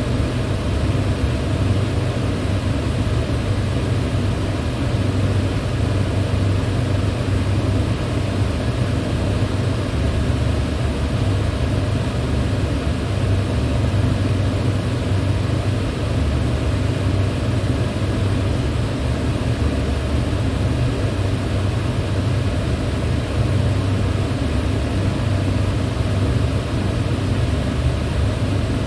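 Electric fan running at a steady speed: a constant rush of air over a low hum.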